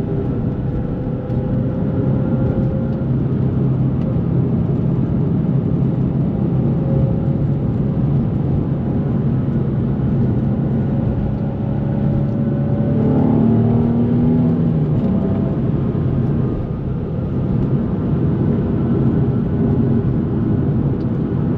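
A 2004 Nissan 350Z's 3.5-litre V6 heard while driving, with its engine and exhaust note running fairly steadily. The pitch briefly rises and falls a little past the middle.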